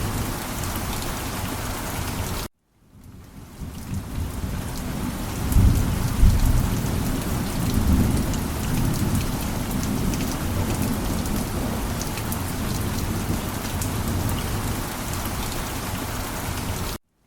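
Heavy rain falling steadily, with a low rumble of thunder swelling about five to eight seconds in. The sound cuts out abruptly about two and a half seconds in and again near the end, each time fading back in.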